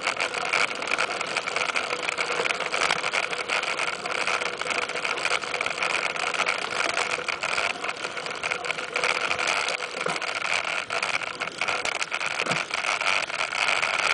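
Continuous noise of a mountain bike being ridden along a dirt trail: tyres rolling over the ground, with many small rattles and knocks throughout.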